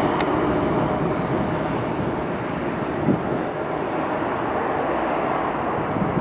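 Jet airliner engines running, a steady, unbroken noise with a faint held tone in it.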